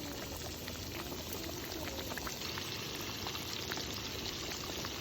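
Food cooking in a pot or pan: a steady bubbling sizzle with small scattered pops.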